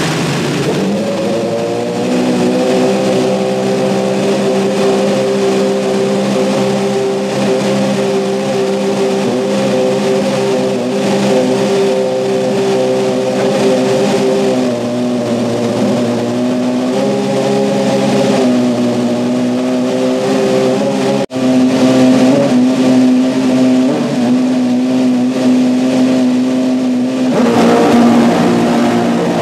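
Ferrari 150° Italia's 2.4-litre V8 Formula One engine running loud and steady at a high idle, its pitch stepping up and down a few times. There is a sudden brief dropout about two-thirds through, like an edit.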